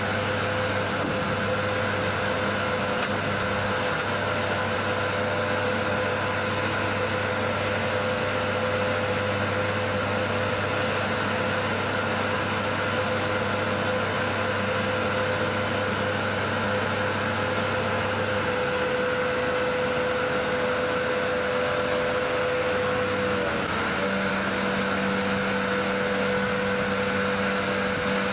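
Heavy truck machinery running steadily, a constant hum with a steady whine. The whine's pitch dips briefly about 23 seconds in and again at the very end. A deep hum fades out about 18 seconds in, and a different low tone comes in about 24 seconds in.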